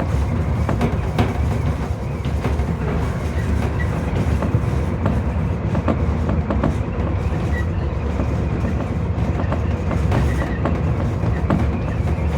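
Tobu 30000 series electric train running at speed, heard from inside the front car: a steady rumble of wheels and running gear, with repeated clicks as the wheels pass over rail joints.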